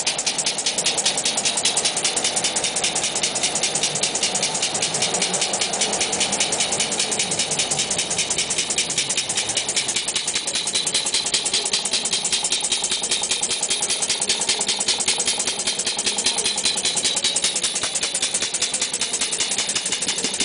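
Steam engine with a 2 1/2-inch bore and 3-inch stroke running steadily on compressed air, giving a fast, even beat.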